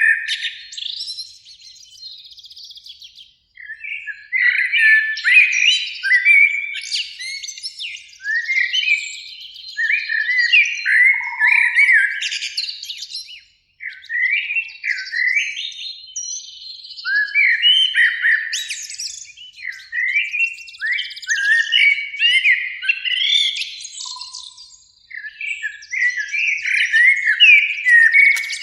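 Eurasian blackbird singing: warbled, fluty phrases one after another, each a run of quick rising and falling notes, with short pauses between them.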